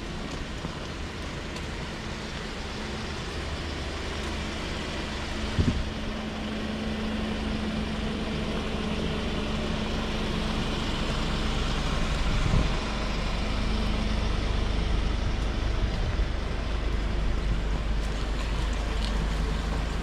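Street traffic noise: a motor vehicle's low rumble that slowly grows louder under a steady hum, with two dull knocks, one about six seconds in and one about twelve seconds in.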